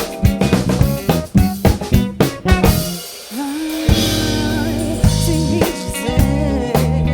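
Live samba-funk band playing an instrumental passage: drum kit with snare and rimshots over electric bass, keyboard and guitar. About three seconds in the groove breaks off briefly, then comes back in on held notes.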